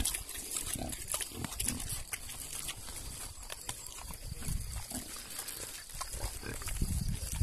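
Kune Kune pigs grunting at close range, with short, sharp clicking sounds scattered throughout and a louder run of grunts near the end.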